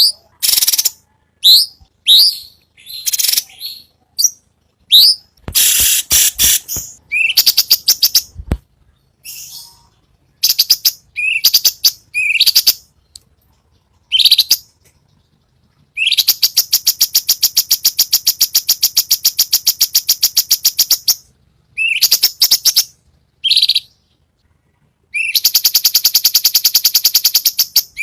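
Cucak cungkok singing: a string of short, sharp whistled calls, each sweeping up, broken by two long, rapid rattling trills, one in the middle and a shorter one near the end.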